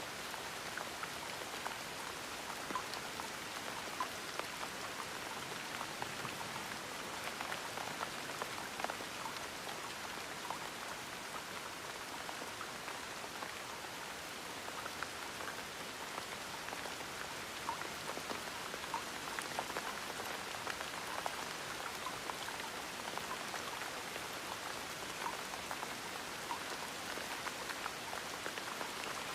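Gentle, steady rain, with many small individual drops ticking over an even hiss.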